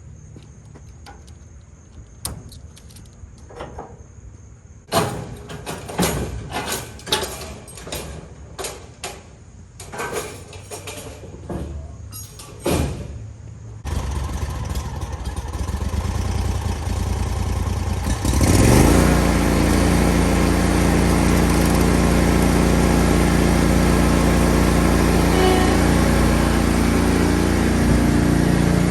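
A string of knocks and clicks, then a zero-turn lawn mower's engine starts about halfway through and runs low; a few seconds later it revs up with a rising pitch and settles into a loud, steady run at full throttle.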